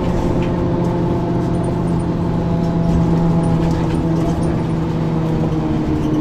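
Diesel engine of a 1994 Ikarus 435 articulated bus with a ZF automatic gearbox, running steadily while the bus is under way, its pitch easing slightly lower near the end.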